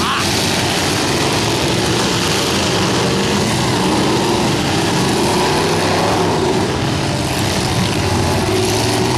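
Several demolition derby cars' engines running and revving together as the cars manoeuvre, a dense, steady engine din with pitches rising and falling.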